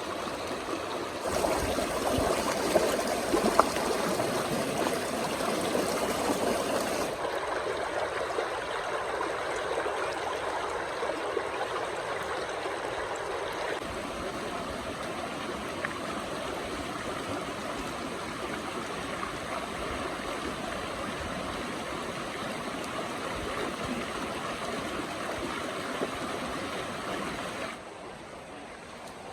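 River water running steadily, a rushing hiss whose level and tone change abruptly several times, with a few faint knocks in the first few seconds.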